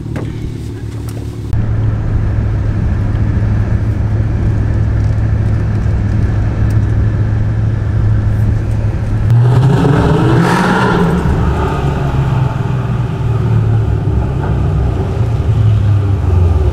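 A loud car engine idling with a deep, steady note that gets louder about a second and a half in. About nine seconds in it is revved once, rising in pitch and falling back to idle.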